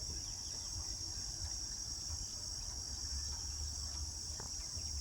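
Steady, high-pitched insect chorus droning without a break, with a low rumble underneath.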